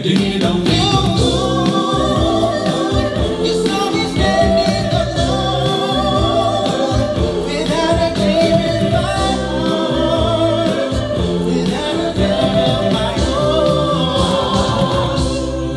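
A vocal group singing in close harmony over a steady pulsing bass line, in a live stage performance of 1950s–60s-style pop.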